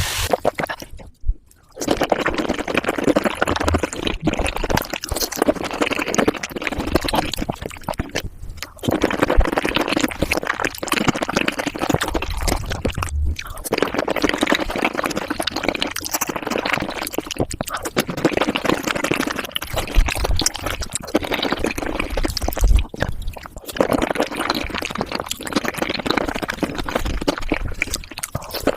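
Close-miked wet chewing and mouth sounds of someone eating raw shrimp, with a few brief gaps.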